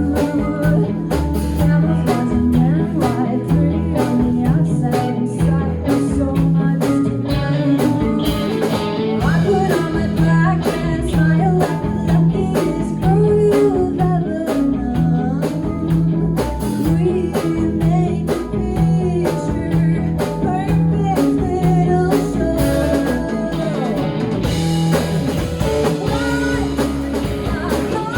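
Live rock band playing a blues-rock song: guitar lines with bent notes over bass and a drum kit keeping a steady beat.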